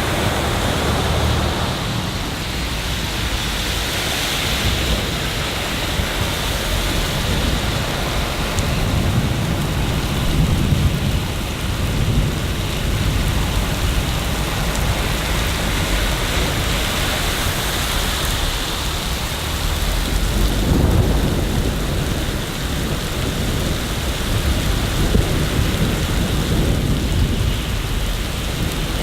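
Steady rain in a city, an even hiss, with deep low rumbles swelling twice, about ten seconds in and again about twenty-one seconds in.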